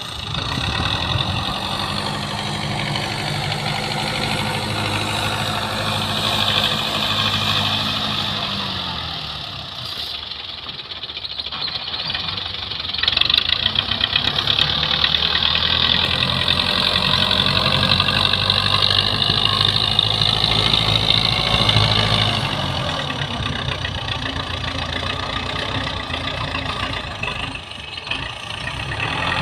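Belarus tractor's diesel engine revving up and holding high revs for several seconds before dropping back to idle, twice.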